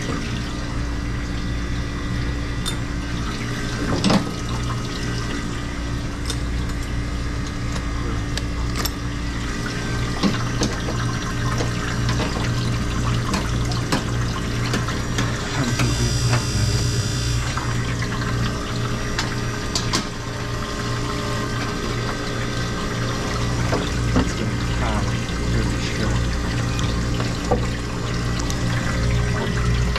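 Ice-O-Matic commercial ice machine running: water pouring and trickling steadily over the evaporator plate, over a steady low machine hum. A few short clicks and knocks from handling the panel and gauge hoses.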